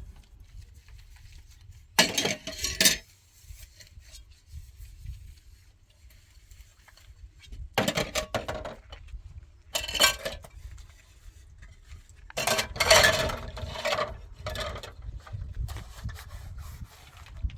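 Dishes and metal utensils clattering in several short bursts, the longest about two-thirds of the way through, over a low steady rumble.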